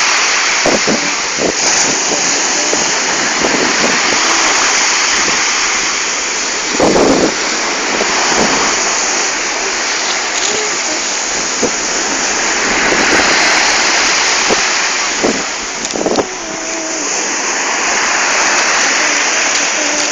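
Ocean surf: a steady rushing of breaking waves that swells and eases every few seconds, with a sharper splash about 7 seconds in and another about 16 seconds in.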